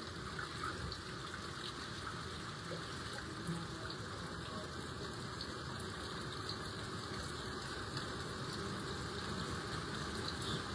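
Steady rushing of floodwater.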